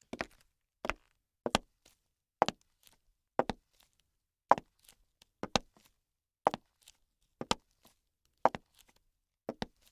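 A series of short, sharp knocks, about one a second, some in quick pairs, with quiet between them.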